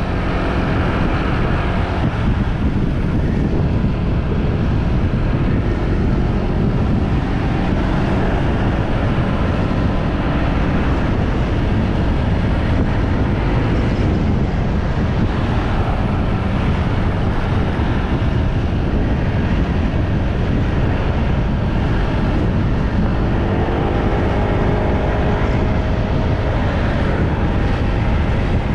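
Motorbike ride: wind buffeting the microphone in a steady low rumble, with the bike's engine running underneath and its pitch rising near the end.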